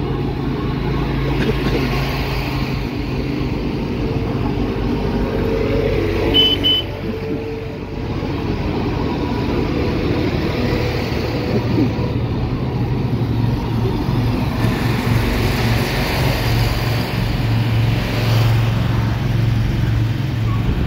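Motor vehicle engines running and moving close by, a steady low engine hum that swells again in the second half. Two short high beeps sound about six seconds in.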